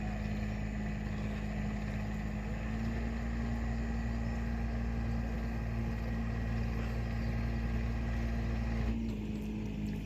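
A small engine running steadily, its note shifting slightly lower about nine seconds in.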